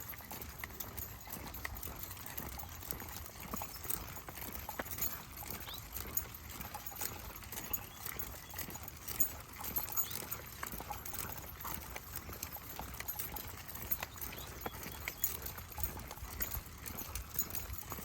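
Footsteps of a person and a pack of dogs walking on a dirt trail: a steady run of small irregular steps over a low rumble.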